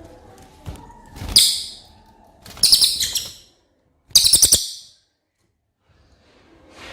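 Cililin songbird singing three short, loud bursts of rapid, high-pitched notes, each under a second long and about a second apart.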